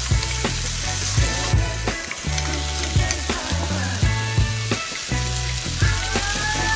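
Diced potatoes and onions sizzling as they fry in oil in a frying pan. A wooden spatula stirs them, giving irregular knocks and scrapes against the pan.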